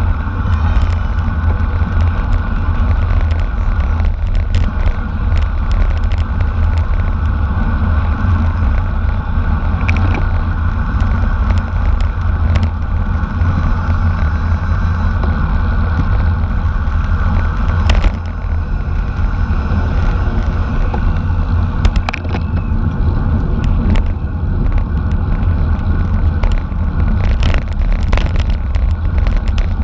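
Steady wind rush buffeting the microphone of a camera carried on a racing bicycle at speed, with scattered sharp clicks and knocks from the bike and the road surface.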